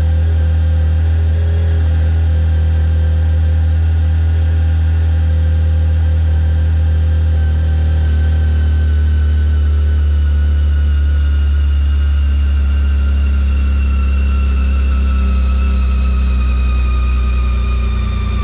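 BMW K1600GTL's inline six-cylinder engine running steadily through its exhaust, a deep, even rumble. In the second half a fainter, higher whine slowly drops in pitch.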